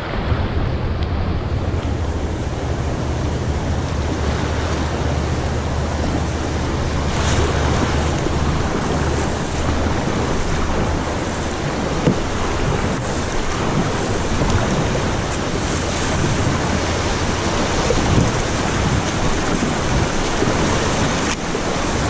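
Rushing river water, a steady wash of noise, with wind buffeting the microphone as a low rumble that is heaviest for the first several seconds and then eases.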